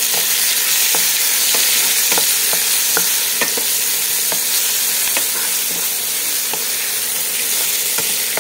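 Sliced olives and spices frying in hot oil in a kadai, sizzling steadily, while a wooden spatula stirs them. Light taps come about twice a second.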